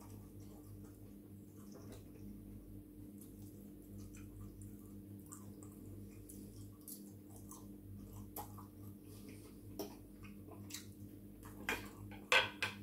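Quiet chewing with soft clicks of a fork, then a few sharper clinks of the metal fork against the plate near the end as more pasta is picked up. A low steady hum runs underneath.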